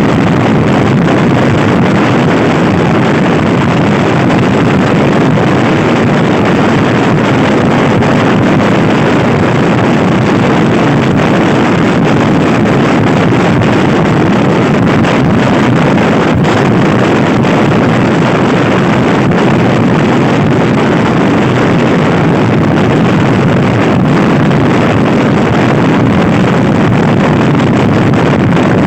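Loud, steady wind rushing over the microphone while riding a Honda Scoopy i scooter at speed, with the scooter's running drowned in the wind.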